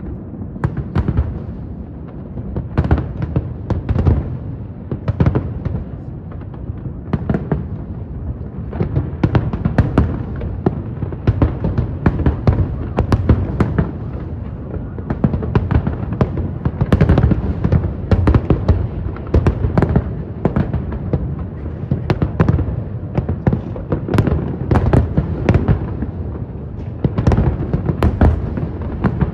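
Aerial fireworks display: a dense, continuous barrage of bangs and crackles over a low rumble, getting busier and louder about a third of the way through.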